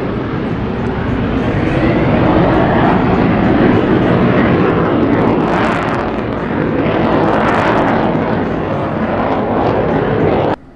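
Loud, steady rush of a U-2 Dragon Lady's F118 turbofan and the wind around a speeding chase car close behind it, swelling up and down midway. It cuts off abruptly near the end.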